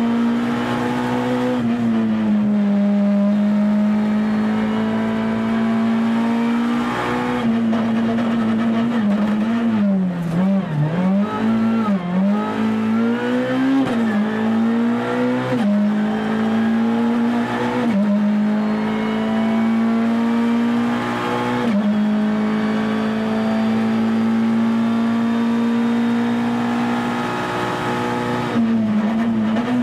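Ford Fiesta R2's 1.6-litre four-cylinder rally engine heard from inside the cabin at high revs. About ten seconds in the revs swing down and up as the car shifts down to second for a bend. It then pulls through step changes in pitch as it shifts back up to fifth.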